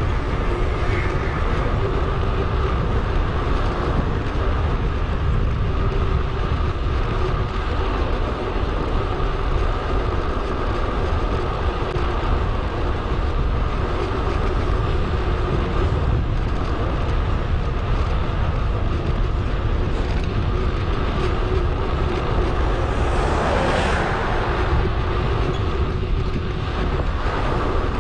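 Steady rush of wind and tyre noise on a bicycle-mounted action camera while riding, with a louder whoosh about 23 seconds in.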